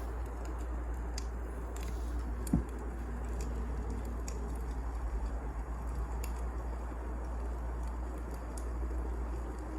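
Wood fire burning, with scattered crackles and pops over a steady low rumble. A single louder thump comes about two and a half seconds in.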